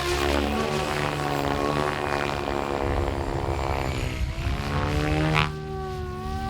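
Goblin 700 radio-controlled helicopter flying aerobatics: the rotor and drive whine glides down and back up in pitch as the head speed and blade pitch change, with a sharp whooshing blade swish about five seconds in.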